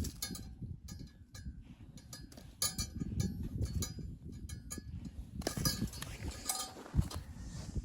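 Irregular knocks and clicks, some with a short metallic clink, as things are handled.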